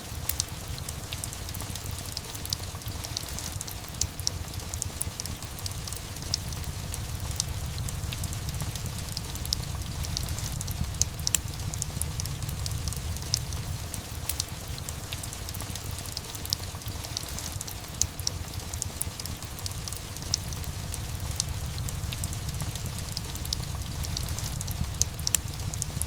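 Steady rain mixed with a crackling fireplace fire: frequent short pops and crackles over an even hiss and a constant low rumble.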